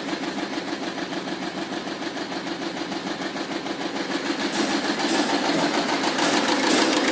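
Mahindra XUV engine turning over on the starter with a rapid, even pulsing that grows louder over the last few seconds, in a video about the vehicle's starting problem.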